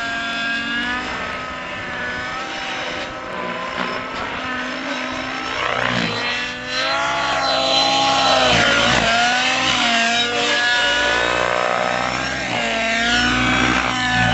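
YS 91SR nitro engine of a radio-controlled helicopter in flight, its whine rising and falling in pitch again and again as throttle and rotor load change during manoeuvres.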